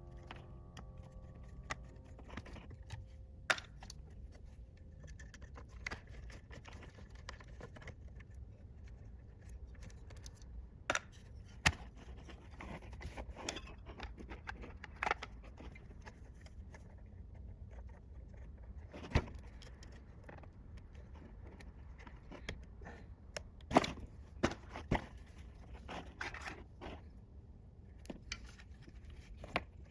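Workshop handling noise: scattered light clinks and knocks of metal tools or parts being picked up and set down, at irregular intervals over a low steady hum.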